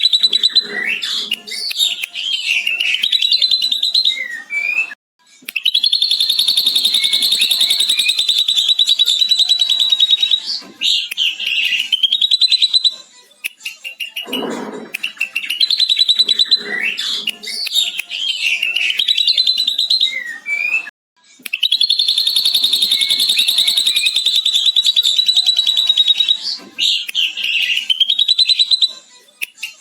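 Ashy drongo singing, mimicking a lovebird's long rapid chattering trill. Trills of several seconds each alternate with shorter varied whistled phrases, and the sequence repeats about halfway through.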